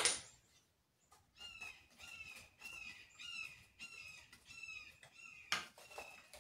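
A bird calling over and over in short, slightly falling, squawk-like calls, about two a second. A sharp knock comes right at the start, the loudest sound here, and a lighter knock about five and a half seconds in.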